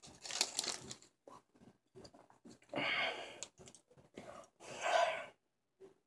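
A mouthful of solid chocolate being chewed, with soft clicking mouth sounds and three heavy breaths.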